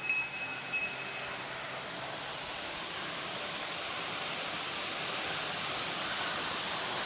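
Waterfall rushing in a steady roar that grows slightly louder. A small bell jingles faintly in the first second or so.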